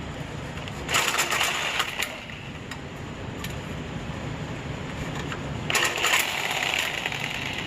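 Reciprocating saw cutting into a car's exhaust pipe in two short bursts of about a second each, metal chattering against the blade.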